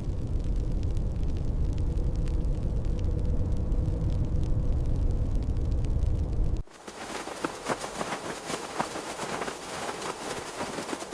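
Blizzard wind, a loud, steady low rumble, until an abrupt cut about six and a half seconds in to a quieter, dense, irregular crackling.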